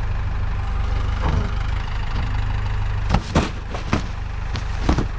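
Vehicle engine idling steadily, with a few sharp clunks about three to five seconds in.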